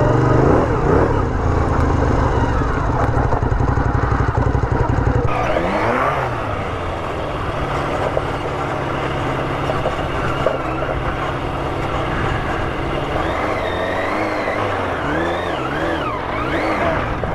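Street motorcycle engine running under way, its note rising and falling with the throttle. The sound changes abruptly about five seconds in.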